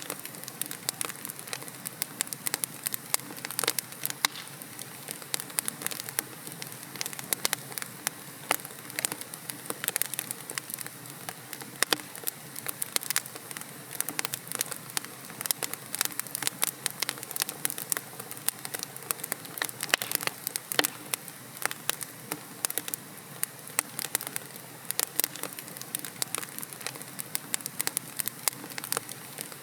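Wood fire in a fireplace crackling: a steady soft hiss of burning logs with frequent sharp pops and snaps at irregular intervals.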